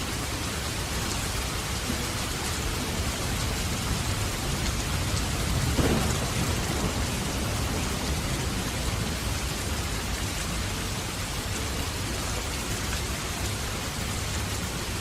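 Steady heavy rain with a rumble of thunder that swells and peaks about six seconds in, then fades back under the rain.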